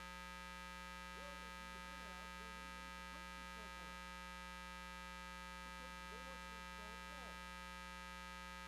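Faint steady hum made of several fixed tones. Faint wavering pitched sounds come and go over it.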